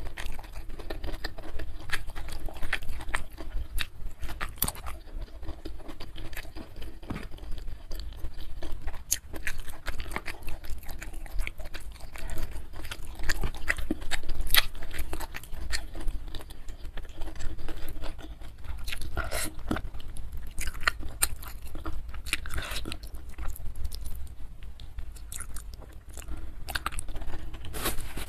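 Close-miked chewing and biting of food, a steady run of wet mouth sounds and many short sharp clicks, as rice and goat trotter curry eaten by hand are chewed.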